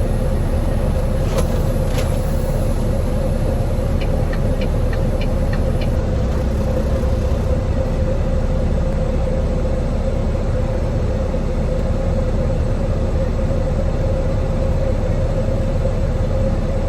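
Diesel truck engine idling steadily: a low rumble with a steady hum above it. A few light clicks come in the first few seconds.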